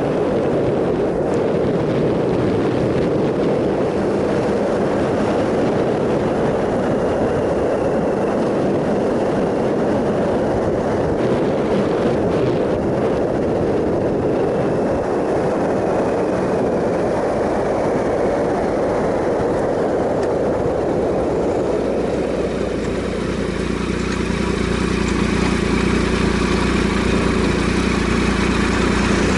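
Triumph Sprint ST 1050's three-cylinder engine running steadily under a heavy rush of wind on the microphone. About two-thirds of the way through, the wind rush eases and the engine's steady note comes through more clearly.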